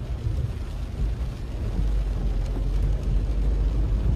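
Steady low rumble of rushing floodwater, growing louder about halfway through.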